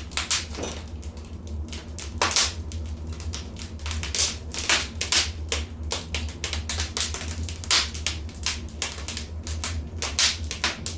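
Wood fire in a fireplace crackling: irregular snaps and pops, several a second and some louder than others, over a steady low rumble.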